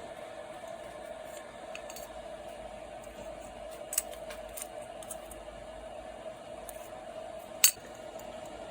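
A few light clicks and taps of small metal carburetor parts being handled, the loudest near the end, as the float and inlet needle go back into a Tecumseh carburetor. A faint steady hum sits under it.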